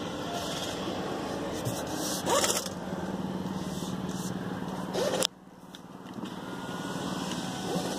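Mercedes-AMG GLE43's twin-turbo V6 running quietly at low speed in comfort mode, with a steady low hum. About five seconds in the sound drops off abruptly, then slowly comes back.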